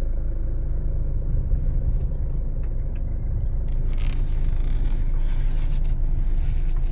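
Low, steady rumble of a car heard from inside the cabin as it pulls away. A hiss joins about four seconds in and cuts off near the end.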